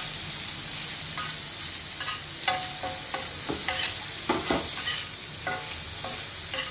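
Paneer cubes sizzling in butter on a dosa griddle. A steel spatula scrapes and clinks against the griddle as the cubes are turned, with a string of sharp metallic taps in the middle.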